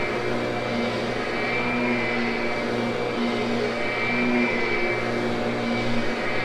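Kirby upright vacuum running steadily as it grooms a carpet: a motor hum with a high whine, and a low tone in it that comes and goes every second or so.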